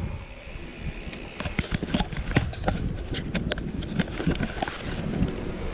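Wind rushing over the microphone of a moving bicycle, with the bike giving a run of sharp, irregular clicks and rattles for a couple of seconds near the middle.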